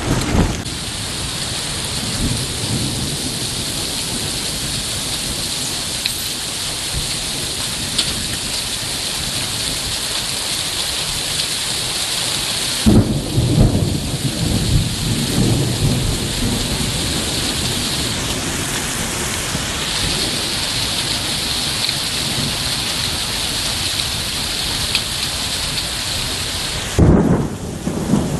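Heavy rain falling steadily during a thunderstorm. A sudden thunderclap hits about halfway through and rolls on as a low rumble for a few seconds, and another sharp clap of thunder comes near the end.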